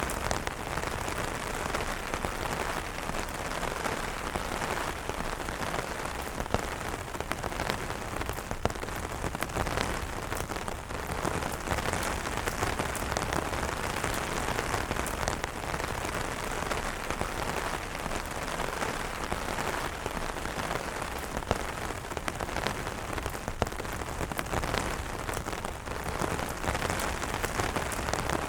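Steady rain falling on umbrellas: a dense, even spatter of drops on the fabric, with a few louder single drop hits here and there.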